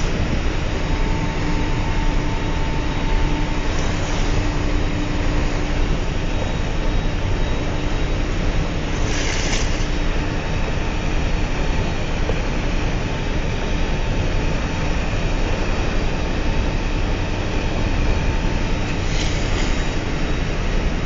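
A ship under way heard from its stern: the steady, loud rumble and hum of its engines and propeller wash, with a faint steady hum. Twice, about ten seconds apart, a short hiss rises over it.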